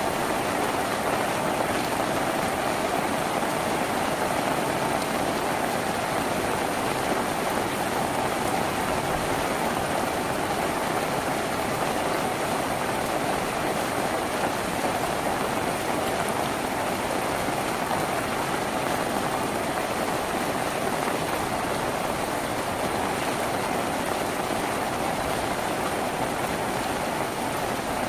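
Steady rain falling on a tin roof, an even, unbroken patter.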